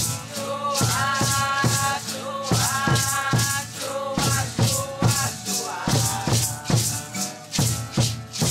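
Ritual music with shaker rattles beating a steady rhythm of about two to three strokes a second over low drum beats, and a melody that rises and falls above them.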